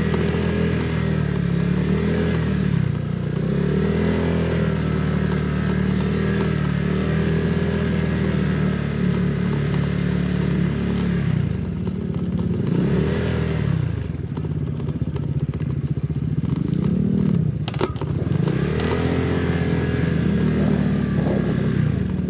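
Honda PCX 160 scooter's single-cylinder engine running while riding, its pitch rising and falling again and again with the throttle.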